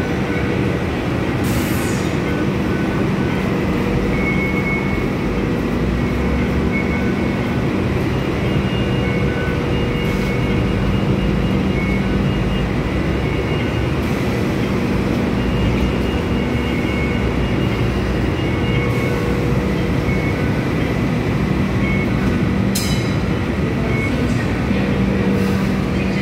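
Hong Kong Light Rail Phase III car running along the track: steady rolling noise with a hum made of several steady tones. Two brief sharp clicks come about 2 seconds in and near the end.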